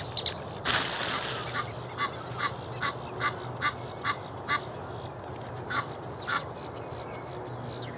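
A waterfowl giving a quick series of short calls, about eight in a row at two to three a second, then two more after a pause. A brief loud rush of noise comes just before the calls, about a second in.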